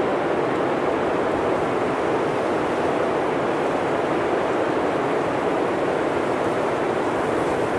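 Steady blizzard wind blowing through a forest, a constant even rush without gusts or breaks.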